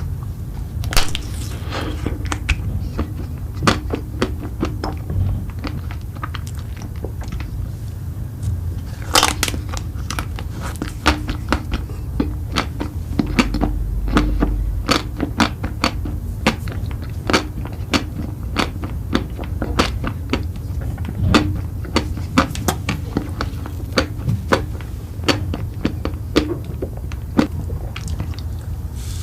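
Close-miked eating: crunchy bites and chewing, a dense, irregular run of sharp crackles and clicks over a steady low hum.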